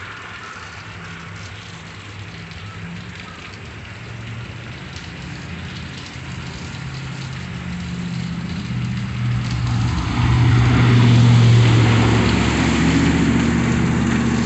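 Heavy rain falling while a car's engine approaches through the flooded street and grows steadily louder, loudest from about ten to twelve seconds in, with a rushing hiss of water thrown off its tyres as it drives through the floodwater.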